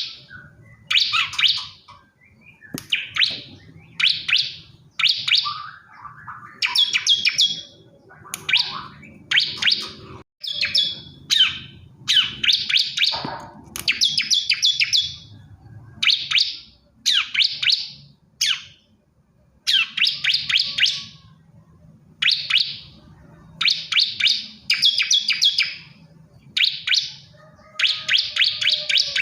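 Male ciblek kristal (bar-winged prinia) singing: a fast series of short, high, rapid-note bursts, each about a second long, repeated with brief pauses between.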